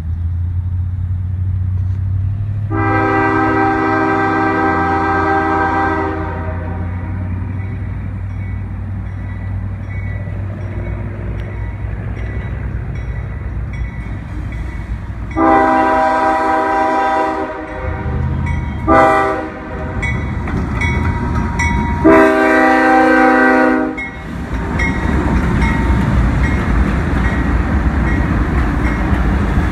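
Locomotive air horn sounding the grade-crossing signal: long, long, short, long, the first blast set well apart from the other three. A steady low engine rumble runs underneath, and the noise of the passing train grows louder after the last blast.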